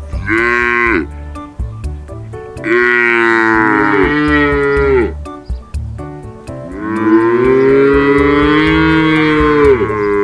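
Cattle mooing three times: a short moo just after the start, then a long moo, then a longer one that ends near the close.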